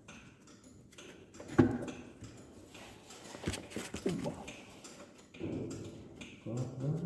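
A few sharp knocks of tools on the tractor's parts while a driveshaft is being bolted on, the loudest about a second and a half in and another about two seconds later, with brief voice sounds between.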